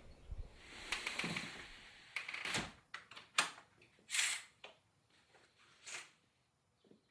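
Rustling, then a few short, sharp handling noises, clicks and swishes, roughly a second apart, fading away near the end.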